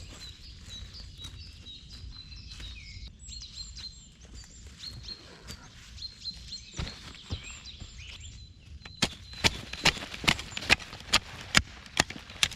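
Small birds chirping in short, high calls. About two-thirds of the way in, loud, regular footsteps begin, between two and three steps a second.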